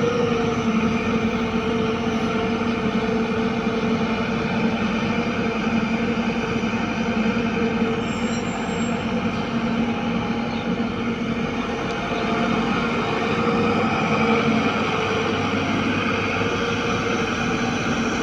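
Heavy diesel engine running steadily at constant speed, with a continuous droning note.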